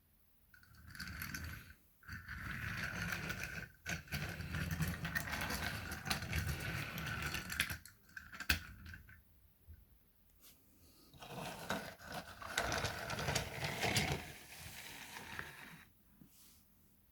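Motorized toy train running on plastic track, its small motor and gears whirring with a steady whine and wheels clicking, in two stretches: from just after the start to about eight seconds in, and again from about eleven to fifteen seconds in.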